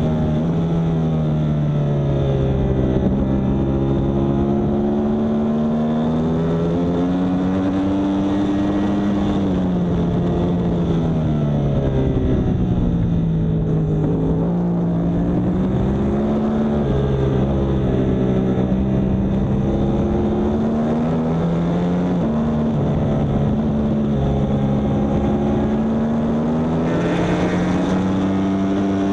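Yamaha R1 superbike's crossplane inline-four engine at racing speed, its pitch rising under throttle and falling off again again and again as the bike drives out of and brakes into corners.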